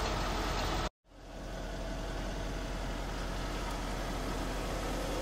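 Steady low hum of the E63 AMG's twin-turbo 5.5-litre V8 idling, heard from inside the cabin. The sound cuts out for a moment about a second in and comes back at the same level.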